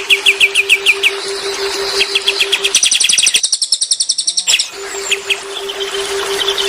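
Songbirds singing: a rapid run of short downslurred chirps, about eight a second, then a faster, higher trill in the middle, over a steady low pulsing hum that drops out for a moment and returns.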